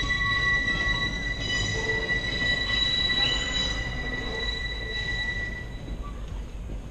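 Big Trees passenger train rolling past, its wheels squealing in steady high tones that fade out about three-quarters of the way through, over a low rumble of the train's running gear.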